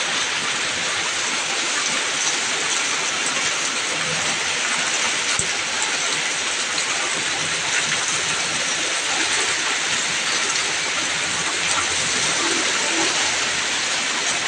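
Heavy rain pouring down steadily, a dense, even hiss of rain falling on the ground and road.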